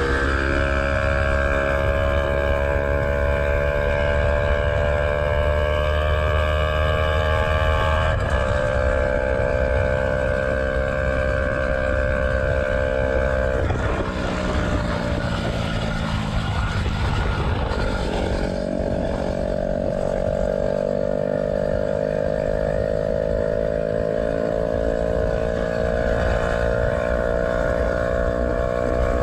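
Yamaha YZF-R125's 125 cc single-cylinder four-stroke engine heard onboard while riding, through an aftermarket Black Widow exhaust with the dB killer removed. It runs steadily with a short break about eight seconds in, fades into wind and road noise for a few seconds around the middle, then returns with its pitch slowly rising.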